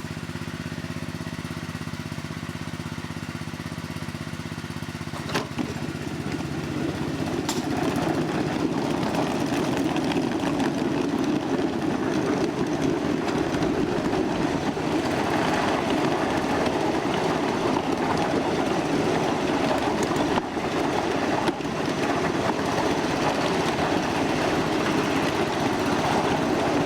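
1/8-scale ride-on miniature train: a steady hum at rest, then a click about five seconds in as it gets under way, and a louder rolling rumble of wheels on the track for the rest.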